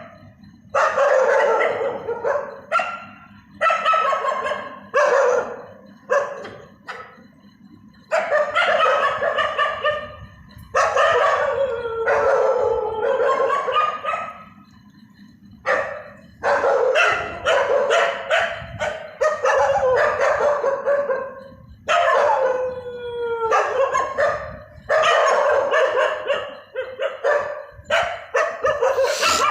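Dog howling and whining in a series of long, wavering wails, one after another, some sliding down in pitch, with shorter yelps between them.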